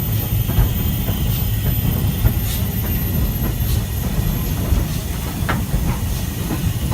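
Steam-hauled train running: a steady low rumble of wheels on rail with a hiss over it.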